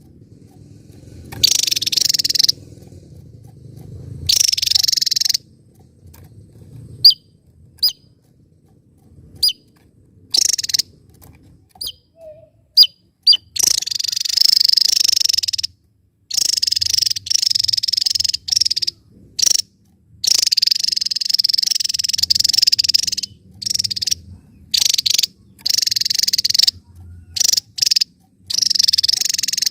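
Javan tesia singing: repeated bursts of rapid, high, buzzy trills, each one to two seconds long, with short sharp single notes between them. A low rumble sits under the first few seconds.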